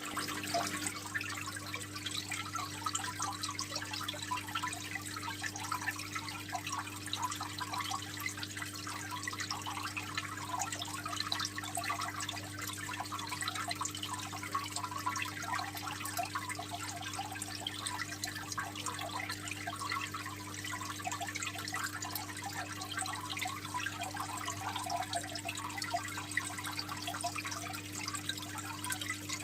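Aquarium water trickling and splashing continuously, a dense patter of small drips and splashes, over a steady low hum.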